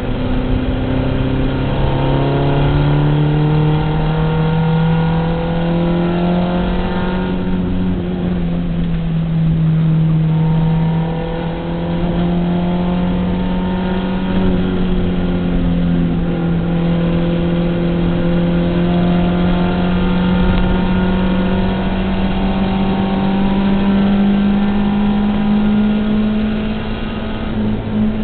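Volkswagen race car's engine under hard throttle, heard from inside the cabin: the revs climb over the first seven seconds, drop briefly, then climb slowly again, with steady road and wind noise underneath.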